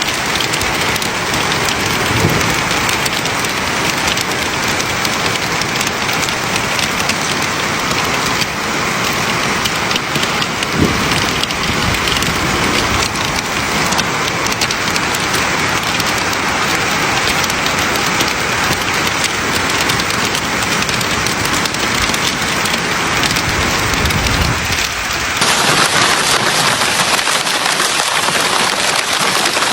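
Hailstorm: hail and heavy rain pelting down in a loud, dense, steady hiss of impacts, with a few heavier knocks. The sound shifts abruptly about 25 seconds in, as if cutting to another recording of the same storm.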